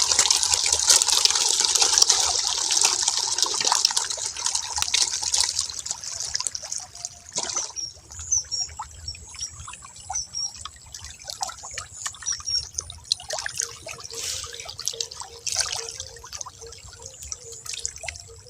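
Running water in a pond, splashing and trickling. It is loud at first, then drops about seven seconds in to a quieter trickle with scattered drips.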